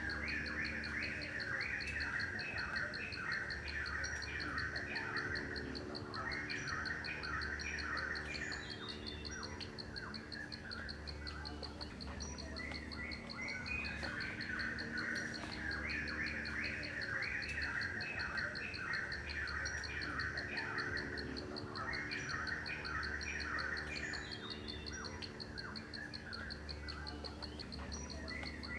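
Birds chirping in bursts that recur every few seconds, over a steady, rapidly pulsing insect trill like a cricket's.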